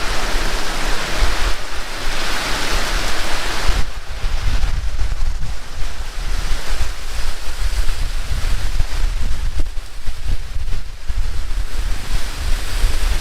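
Heavy rain pouring, with strong wind buffeting the microphone as an uneven low rumble under the hiss of the rain. The rain's hiss eases a little about four seconds in.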